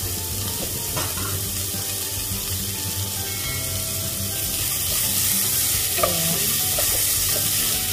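Chopped onion, garlic and ginger sizzling steadily in hot oil in the base of a pressure cooker, with a wooden spatula stirring and scraping them around the pot.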